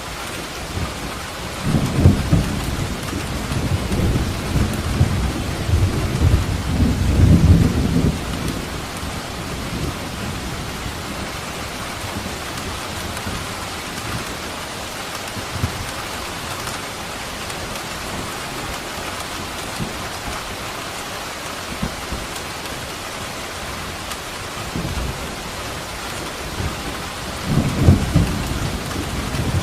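Steady rain falling, with thunder rumbling deeply twice: a long rolling peal in the first several seconds and another starting near the end.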